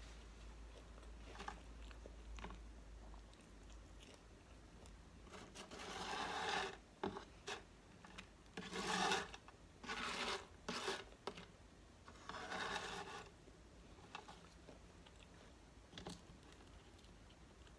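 Close-miked eating: a handful of short crunching and rustling bursts with small clicks between them, as fast food is bitten, chewed and handled.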